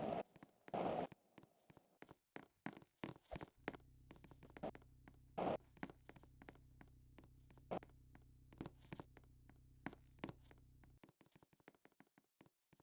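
Faint, irregular taps and knocks, with a low steady hum that starts a few seconds in and stops suddenly near the end.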